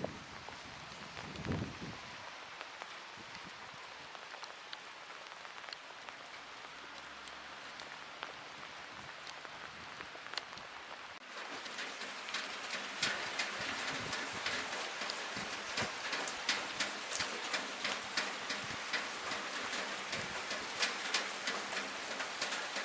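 Rain drumming on a window ledge, a steady hiss with individual drops ticking sharply. About eleven seconds in it turns suddenly louder, with dense, sharp drop hits. There is a brief low thud near the start.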